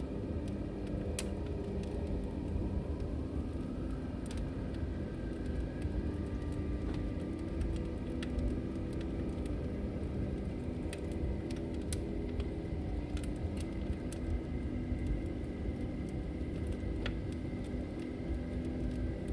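Log fire burning in a fireplace: a steady low rumble of flames with scattered sharp crackles and pops, and faint held tones in the background.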